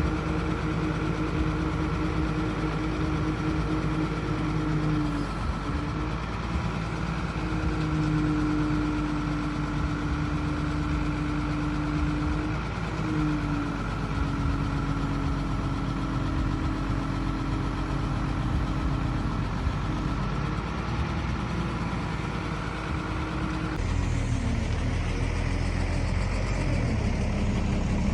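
Heavy vehicle engine running steadily, its pitch stepping up and down slightly a few times. Near the end the sound changes and a deeper rumble grows louder.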